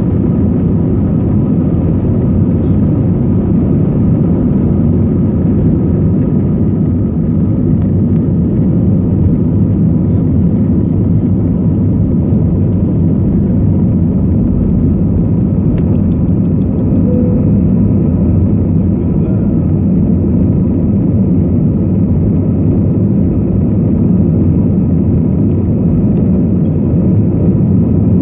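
Airliner's jet engines running, a steady loud drone with faint high whining tones above it.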